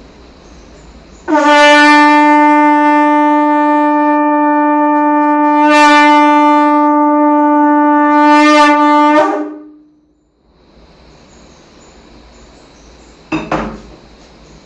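Conch shell blown in one long, steady, loud note of about eight seconds, swelling a little near the end before it dies away. A short knock follows a few seconds later.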